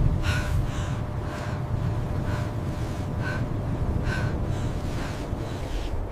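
Heavy breathing: short, hard breaths about once a second, over a steady low rumble of wind.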